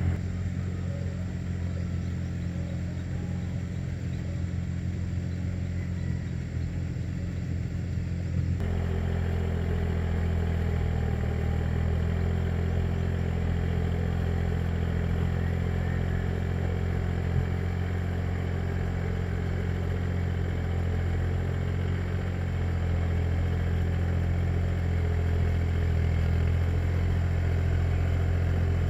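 Tractor engine running steadily. The sound changes abruptly about nine seconds in, then carries on slightly louder.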